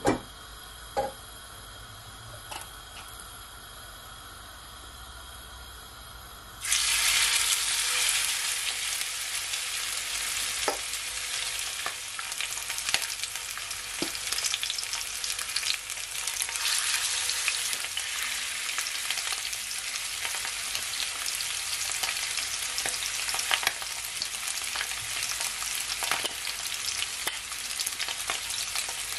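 Salmon steaks frying in hot olive oil in a skillet. Quiet at first, then a loud sizzle starts suddenly about a quarter of the way in as the fish goes into the pan, and carries on as a steady hiss with frequent crackles and pops.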